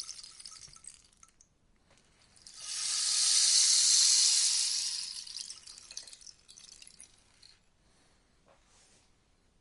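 Rainstick tipped over, its pebbles or beads trickling down through the tube in a rain-like patter. One pour dies away about a second in. A new cascade swells up, is loudest around the middle and thins into a few scattered ticks of the last grains near the end.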